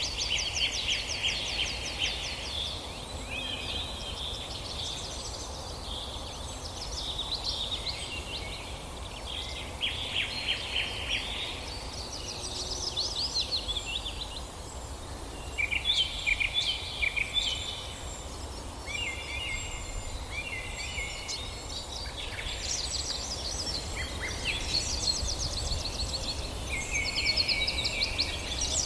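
Several songbirds singing together in a forest, with overlapping rapid trills and chirps throughout and a steady low rumble underneath.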